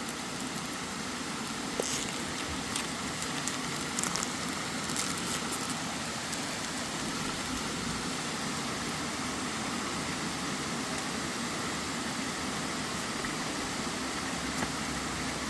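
Waterfall rushing in a steady, even roar of water, with a few faint ticks and crinkles in the first few seconds.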